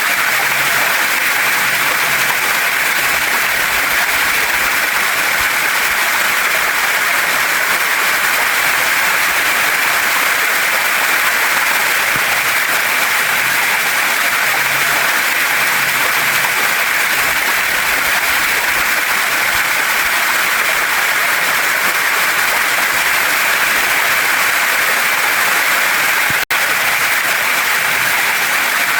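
Waterfall and stream water rushing over rocks, a steady, even hiss with an instant's dropout near the end.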